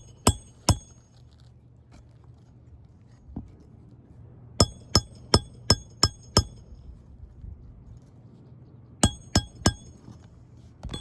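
A hammer driving a roofing nail through asphalt shingles, with sharp, ringing metal-on-metal strikes. There are two near the start, a run of six at about three a second in the middle, and three quick ones near the end.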